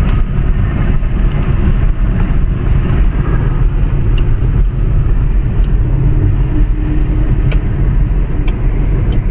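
Honda car driving along, with a steady low rumble of engine and road noise and a few faint ticks.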